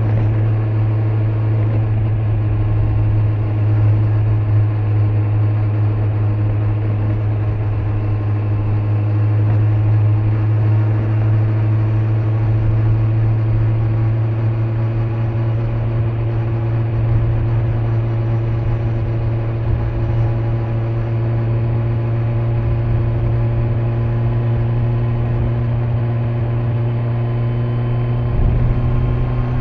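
2025 Kawasaki Z900's inline-four engine with stock exhaust running steadily under way, its note climbing slowly as the revs gradually rise, over road and wind noise.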